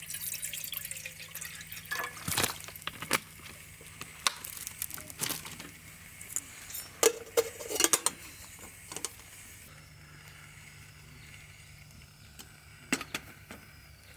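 Water splashing and dripping, with a run of sharp clinks and knocks for about nine seconds, then it quietens to a faint steady background.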